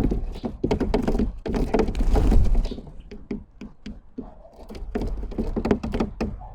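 Birds pecking and moving about on a feeder close to the microphone: a rapid, irregular run of taps and knocks with some heavier thumps. It thins out in the middle and picks up again near the end.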